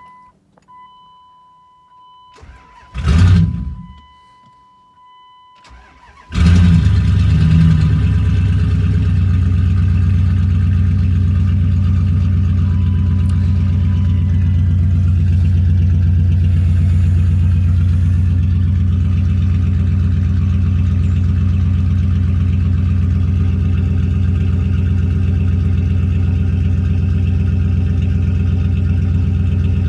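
Straight-piped 5.2-litre V8 of a 1998 Dodge Durango cold-starting after sitting for over a week. A short loud burst comes about three seconds in; the engine catches about six seconds in, flares briefly, and settles into a loud, steady idle.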